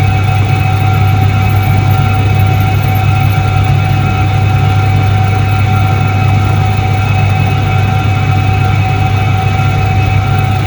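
A 1978 Soviet Iset-3 washing machine running: a steady low hum with a constant higher tone over it, unchanging throughout.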